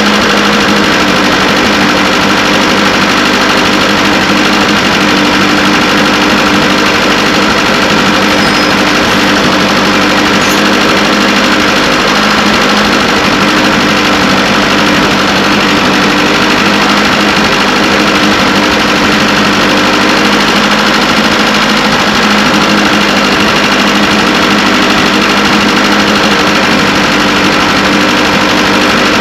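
Carburetted petrol engine with points ignition running steadily at a constant speed, with no revving. It is being test-run to see whether the misfire and loss of power it had at about 1,000 rpm are cured.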